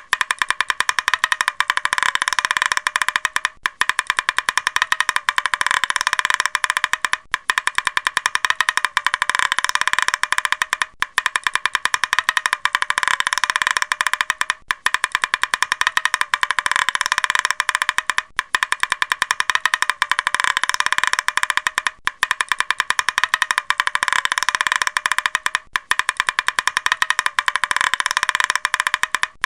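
Woodpecker tapping: a dense, rapid crackle of high-pitched clicks, broken by a brief pause about every four seconds as the sequence repeats.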